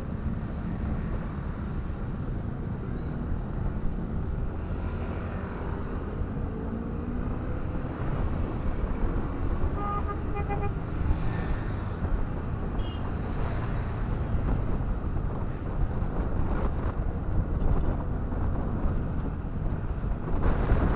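Motorcycle riding through traffic: a steady engine and road rumble, its pitch rising and falling in the first few seconds. About ten seconds in, a vehicle horn gives a few quick beeps.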